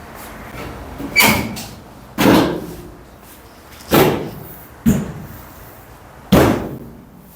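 Sharp metallic bangs, five of them a second or two apart, each with a short ringing decay, as the sheet-metal top cover of a Whirlpool dryer is knocked into place on the cabinet.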